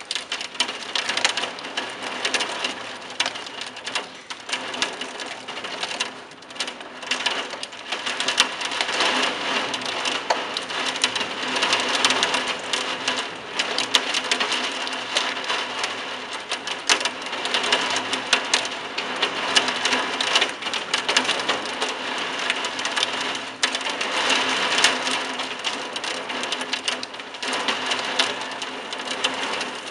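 Heavy thunderstorm downpour: a dense crackle of raindrops striking a hard surface close by, swelling and easing in gusts.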